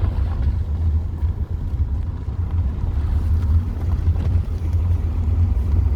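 Wind buffeting the microphone: a steady, loud low rumble that flutters without letting up.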